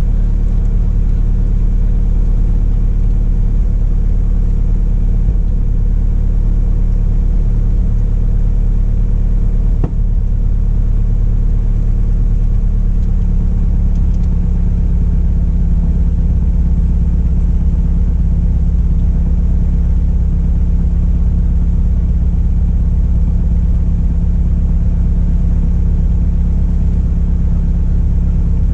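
Cockpit drone of a 1973 Cessna Cardinal RG's four-cylinder Lycoming IO-360 engine and propeller, running steadily. A single click is heard about ten seconds in.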